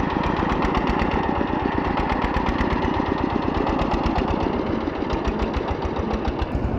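Single-cylinder diesel engine of a Bangladeshi kutta gari (engine-driven steering trolley) running steadily with a fast, even chugging beat.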